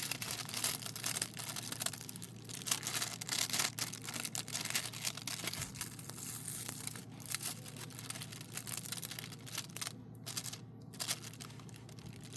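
Thin plastic cover sheet on a sticky diamond-painting canvas crinkling and rustling as it is handled and peeled back, in many quick crackles that thin out toward the end.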